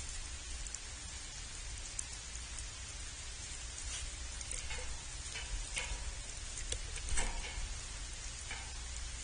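Steady hiss like light rain, with scattered small clicks and a few short faint chirps around the middle.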